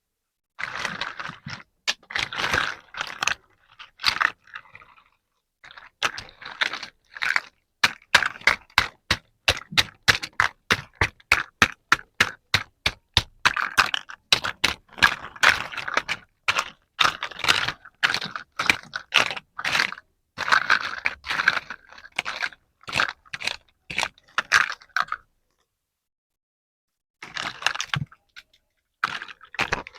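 Crinkling and crackling of toy packaging being handled and opened, in irregular bursts of short sharp crackles and scrapes, with a run of quick, evenly spaced clicks about a third of the way in and a short pause near the end.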